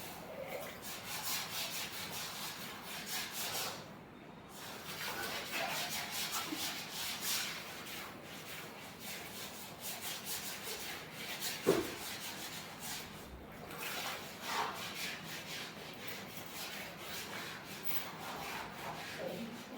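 A buffalo being milked by hand: a long run of quick swishing squirts of milk into a pail, with one brief louder sound about twelve seconds in.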